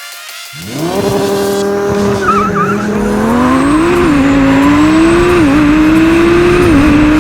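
Twin-turbo Lamborghini Huracán V10 accelerating hard from a launch, with tyre squeal as the factory tyres and traction control fight for traction. The engine note rises sharply about half a second in, then climbs steadily with three quick drops in pitch at the gear changes.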